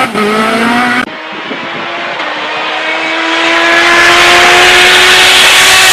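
Hillclimb race car's turbocharged VW ABF four-cylinder engine at high revs, its pitch shifting quickly at first. About a second in the sound changes abruptly, and the engine then pulls hard in one gear, its pitch climbing steadily as it grows louder.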